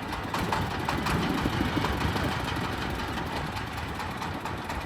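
30 hp Dong Feng diesel engine running steadily on a corn sheller, with a dense run of small clicks over the steady engine sound.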